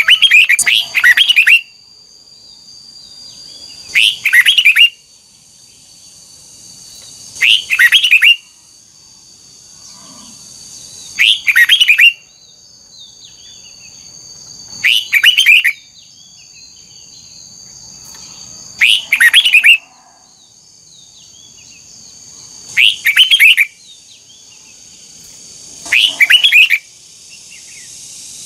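Red-whiskered bulbul singing one short double-note phrase over and over, about every four seconds: a brief note, then a quick run of chirps. The song is the kind played to train caged bulbuls.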